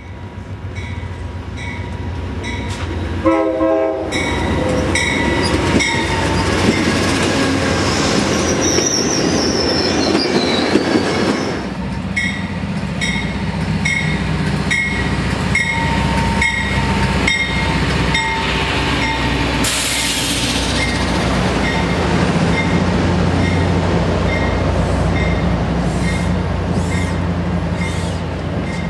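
Amtrak train arriving behind a GE P42DC diesel locomotive: a short horn blast about three seconds in, then a bell ringing steadily about twice a second. The wheels squeal for a couple of seconds, and from about halfway on the diesel engine rumbles low as the coaches roll past, with a brief hiss of air near the two-thirds mark.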